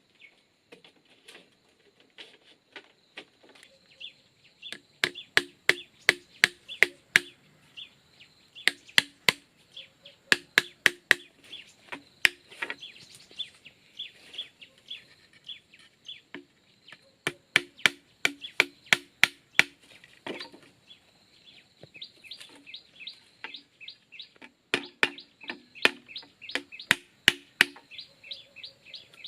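A tool striking bamboo in quick, evenly spaced bursts of about three or four blows a second, each blow with a short hollow ring, pausing between bursts. A steady high insect drone runs underneath.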